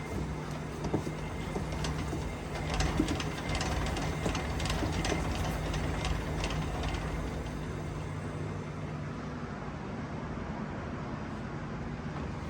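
Front drivetrain of a 1990 Jeep Wrangler YJ turning as the raised front wheel is spun by hand, giving a series of clicks about two a second through the middle stretch over a steady low hum. The noise is suspected to come from the front driveshaft by the transfer case.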